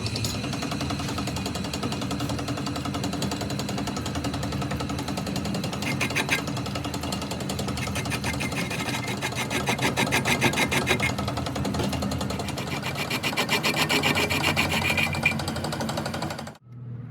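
A power tool or machine running continuously with a fast, even rattle and a steady hum underneath, cutting off suddenly near the end.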